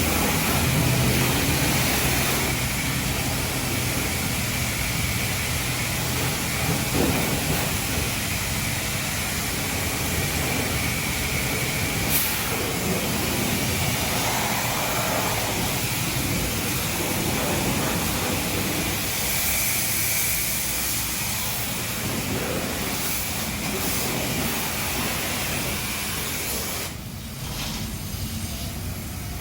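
High-pressure car-wash spray wand blasting water onto a truck, a steady spray that lets up briefly near the end.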